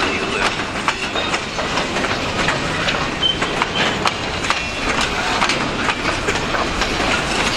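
Freight cars (boxcars and centerbeam flatcars) rolling past: a steady rumble of steel wheels on rail with repeated clickety-clack knocks as the wheels cross rail joints. A short high squeak sounds about three seconds in.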